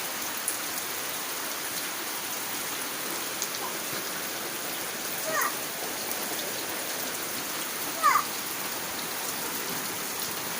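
Steady rain falling. Two brief high calls sound over it, about five and eight seconds in.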